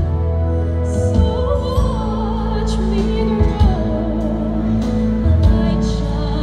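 Female voice singing a slow song in an operatic style with wide vibrato over instrumental accompaniment, the voice coming in about a second in.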